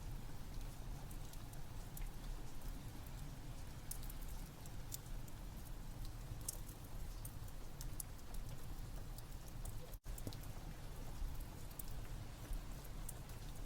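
Steady rain with a low rumble, mixed with a fireplace crackling in scattered sharp pops. A split-second dropout about ten seconds in.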